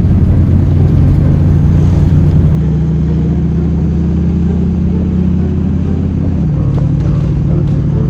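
1934 Ford coupe hot rod's engine running steadily under way. Its note changes about two and a half seconds in and drops slightly about six and a half seconds in.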